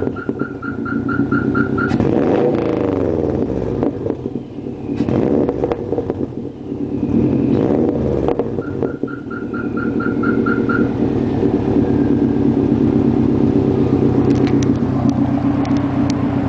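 2008 Subaru WRX's turbocharged flat-four running through a dual exhaust with downpipe and no resonator, idling and revved up and down a few times. An electronic beep, about four pulses a second, sounds twice over it.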